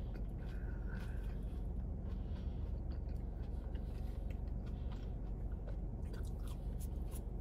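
A person chewing and biting fast food close to the microphone, with scattered faint crunchy clicks over a steady low hum.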